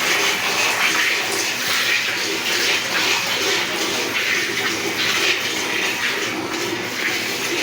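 Cow being milked by hand: streams of milk squirting rhythmically into a pail, pulse after pulse with a frothy hiss.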